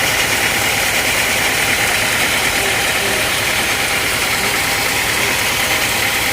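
Sawmill engine running steadily at an even pitch, with no pauses or changes.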